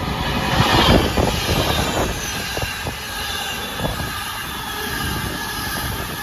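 Avanti West Coast express passenger train passing through the station at speed. A loud rush peaks about a second in, with wheels knocking over rail joints, and settles into a steady rumble as the carriages go by.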